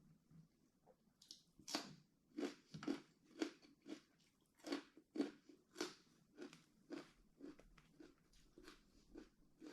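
A person chewing a mouthful of food in a steady rhythm of about two chews a second, starting just under two seconds in.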